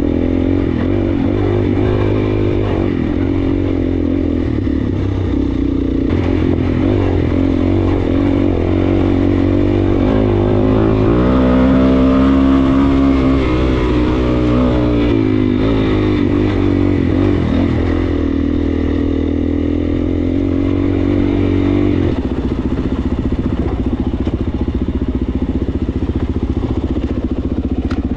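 Suzuki DR-Z400S single-cylinder four-stroke engine running steadily while riding, its pitch climbing and then falling back about halfway through.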